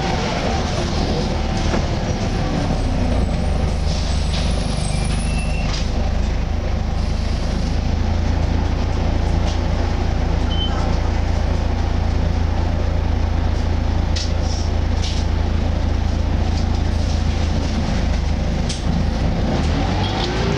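Volvo B10BLE single-deck bus heard on board: its six-cylinder diesel engine and drivetrain run with a steady low drone, with light rattles and clicks from the body. A groaning tone falls away at the start and rises again near the end.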